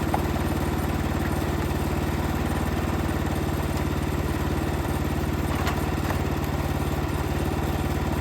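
Small single-engine motor idling steadily at an even pace, most likely the 14 hp engine of a Wood-Mizer LX55 portable band sawmill running without cutting. A faint click comes about two-thirds of the way through.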